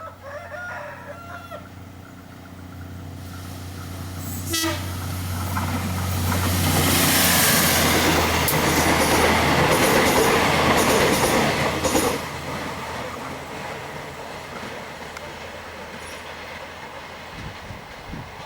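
A diesel-hauled train approaches and passes. A low steady engine hum builds into loud wheel and rail noise with clacking over the rail joints, peaking mid-way and fading after about twelve seconds.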